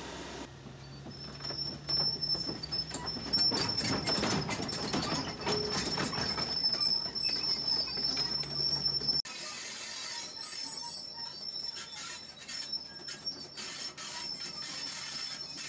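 Forestry harvester machine moving, with a steady high-pitched metallic squeal over repeated clanks and knocks and a low engine hum. The low hum drops away abruptly about nine seconds in, while the squeal and clanking go on.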